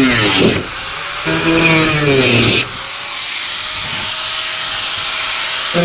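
Handheld electric power saw cutting. Its motor pitch drops and a loud rasping noise rises as it bites into the material, twice in the first few seconds. It then runs freely at a steady pitch and starts dropping again as it cuts once more at the end.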